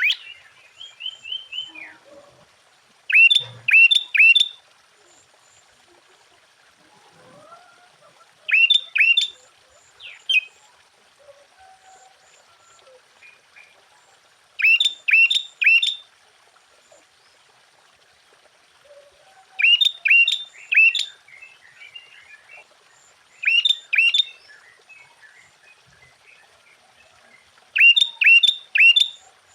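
Sooty-headed bulbul (kutilang) singing: short bursts of three or four sharp, clear notes, repeated about every five seconds, with faint chirps in between.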